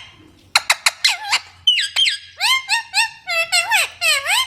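Green parrot calling: a rapid string of short, high-pitched squawks and chirps, many of them dipping and then rising in pitch.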